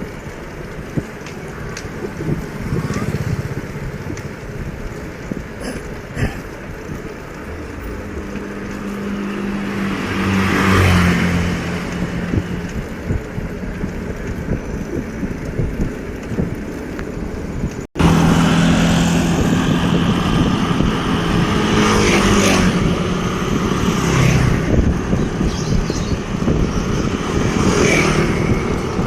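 Motor vehicle engines passing on a road over a steady rush of road and wind noise. One engine swells past around the middle. The sound breaks off sharply about two-thirds of the way through and comes back busier and louder.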